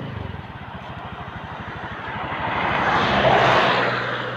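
Engine running steadily, with a rushing noise that swells to a peak about three seconds in and fades away.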